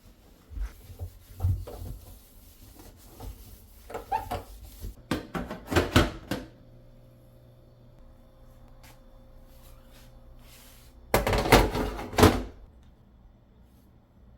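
Household handling noises: a series of knocks and clatters, with a faint steady hum in the middle and a louder burst of clattering about eleven seconds in.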